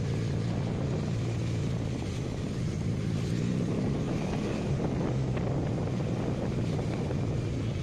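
Motorcycle running steadily while riding, a low engine hum under wind and road noise.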